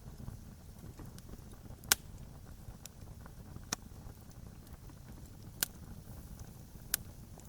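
Campfire crackling: four sharp loud pops and many fainter ticks over a low steady rumble.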